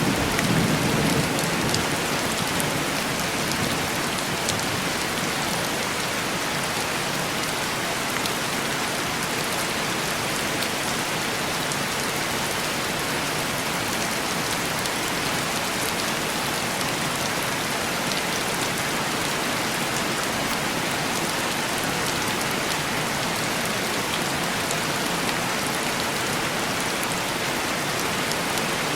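Heavy rain falling steadily and tapping on window glass, with the tail of a low thunder rumble dying away in the first couple of seconds.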